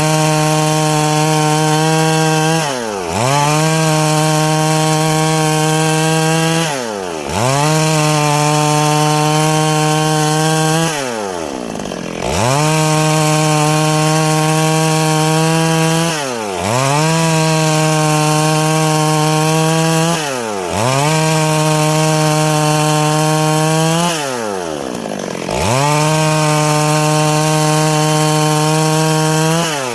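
Chainsaw running at high revs while cutting wood. The engine note sags and climbs back up about every four seconds, six or seven times, as the throttle is eased and opened again.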